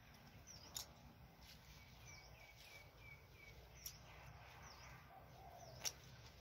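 Birds chirping faintly: a few short swooping calls and, in the middle, a run of about seven quick, even notes. Three sharp clicks are spread through, the loudest near the end.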